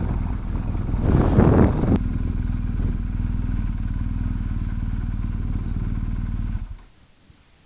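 BMW R1250 GS Adventure's boxer-twin engine running under the rider, busier for about the first two seconds and then settling to a steady low-rev note. The sound cuts off abruptly near the end.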